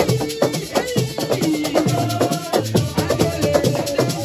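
Assiko music: fast, driving hand-drum strokes with a shaker rattle, under a group of voices singing a held, wavering melody.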